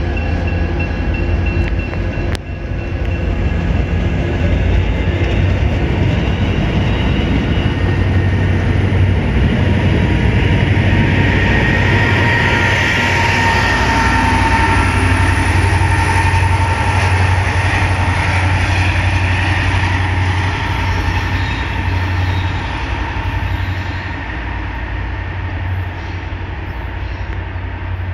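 MBTA commuter rail train passing close by: passenger coaches rolling along the track, then the diesel locomotive going by about halfway through, when the sound is loudest. The sound then eases off a little as the train moves away.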